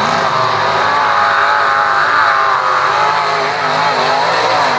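Mega mud truck engine running hard at high revs, its pitch wavering slightly.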